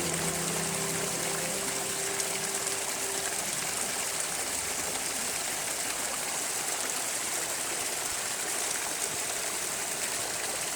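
Small creek waterfall running steadily, a constant rush and splash of falling water.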